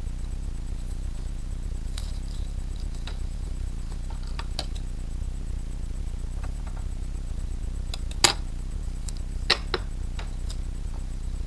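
Scattered light clinks and taps of small hard objects, the loudest about eight seconds in followed by two more close together, over a steady low hum.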